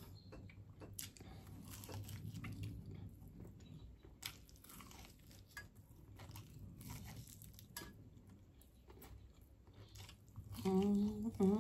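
Close-up chewing and biting of spicy chicken wings: soft scattered clicks and small crunches of mouth noise over a steady low hum.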